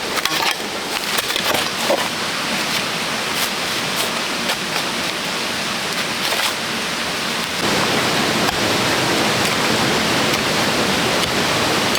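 Steady rushing noise like running water, with scattered sharp clicks and knocks over it at first; about seven and a half seconds in the noise turns abruptly louder and steadier and the clicks stop.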